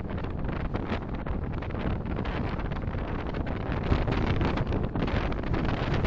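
Steady road and wind noise of a car driving, as picked up by a dashcam microphone: low, even noise with a faint hiss above it.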